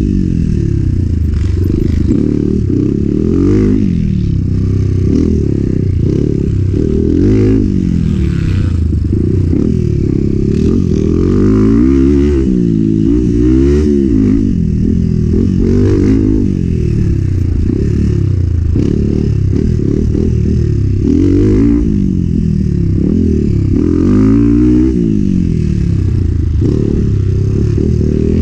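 Enduro motorcycle engine revving up and falling back again and again as the throttle is opened and closed, with some rattling.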